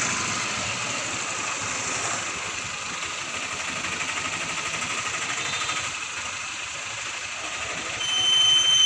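Diesel engine of an Escort Hydra pick-and-carry crane running steadily with a fast even rattle. Near the end a high steady tone sounds for about a second over it.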